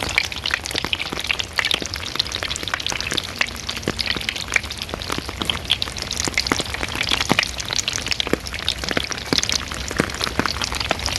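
Cheap styrofoam-core surfboards crackling in the rain: an irregular, dense stream of small snaps and pops, like food frying, over a steady patter of rain. The crackle is described as a snap, crackle, pop, not simply raindrops hitting the board.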